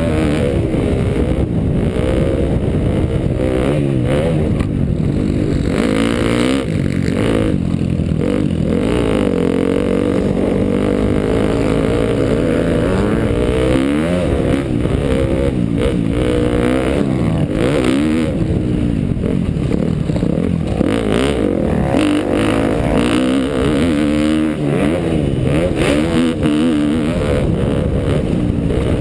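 2012 KTM dirt bike engine being ridden on a motocross track, revving up and down over and over, its pitch rising and falling every few seconds.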